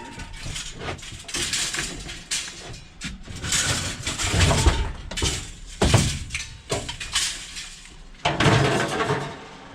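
Scrap metal clanging and clattering repeatedly as pieces of light iron are thrown onto a pile, in irregular crashes with short ringing after each.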